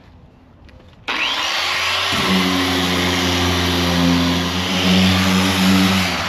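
Electric sander switched on about a second in, spinning up with a rising whine, then running steadily with a loud hum and a grinding hiss, and stopping near the end.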